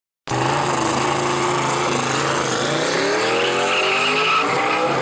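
Car engine revving hard, its pitch climbing through the second half, cut in and cut off abruptly.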